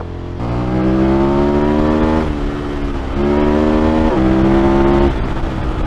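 KTM motorcycle engine accelerating hard through the gears, its pitch climbing, dropping at an upshift about two seconds in, climbing again with a second quick shift about four seconds in, then falling away as the throttle is rolled off about five seconds in.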